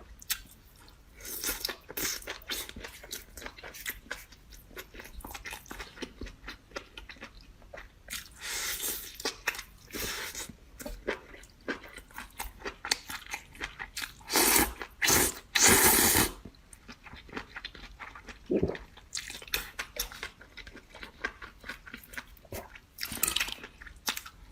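Close-miked eating: crunchy biting and chewing, with many small clicks throughout and louder crunches about nine seconds in, twice around the middle, and near the end.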